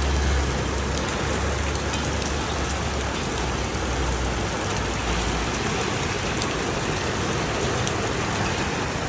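Heavy rain pouring down in a steady hiss, with a low rumble underneath that eases off about five seconds in.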